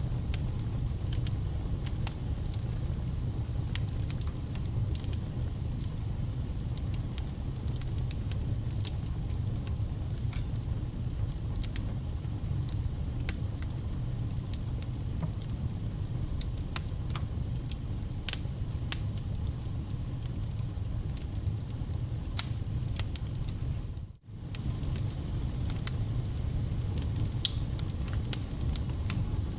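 Wood fire burning, with scattered sharp crackles and pops over a steady low rumble. The sound cuts out for an instant about three-quarters of the way through.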